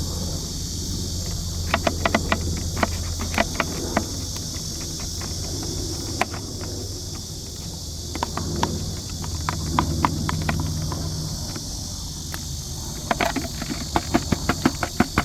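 Sharp clicking taps of a wooden stick against a plastic PET bottle as grapes are pushed down into it, in scattered groups and then a quick, even run of taps near the end. A steady insect drone and a low hum run underneath.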